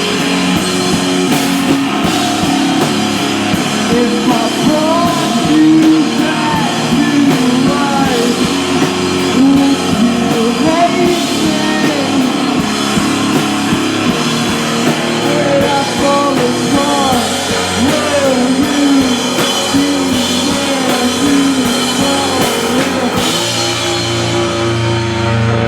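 Live rock band playing: drum kit, guitar and sung vocals, ending on a held chord near the end.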